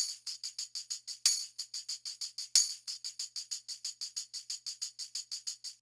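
Background music reduced to a lone tambourine keeping a quick, even rhythm of about six shakes a second, with three stronger hits in the first half.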